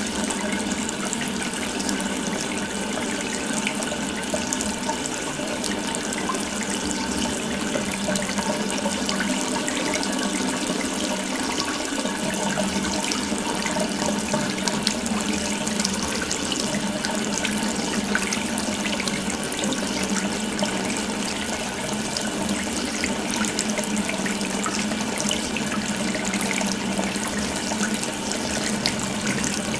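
Water tap left running, a continuous stream of water pouring steadily into a sink.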